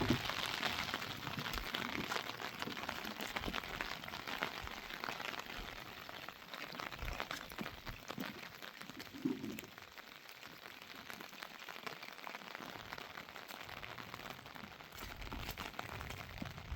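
Steady rain, an even hiss with the patter of many individual drops, a little heavier in the first few seconds.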